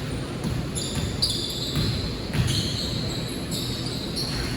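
Basketball game on an indoor court: the ball bouncing, with several short high squeaks from sneakers on the floor over a steady hall background.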